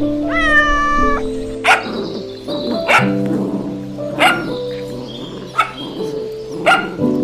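A cat meows once near the start, then a dog barks several times, about one bark every second and a quarter, over background music with long held notes.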